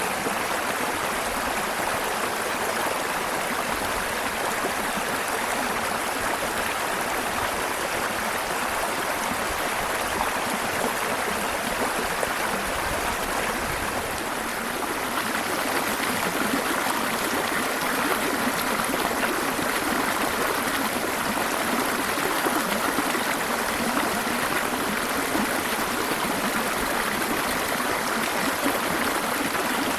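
Waterfall: a steady rush of falling and tumbling water, slightly louder from about halfway through.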